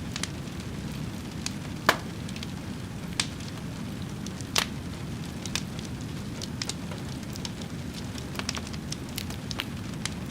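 Wood fire burning with a steady low rumble and scattered sharp crackles and pops, the loudest about two seconds in and again near the middle.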